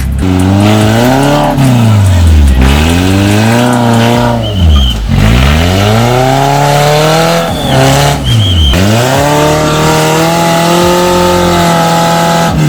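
An off-road 4x4's engine is revved hard again and again, its pitch climbing and dropping through several surges before it holds at a steadier high speed near the end. Short high-pitched squeaks cut in about a third of the way through and again around two-thirds in.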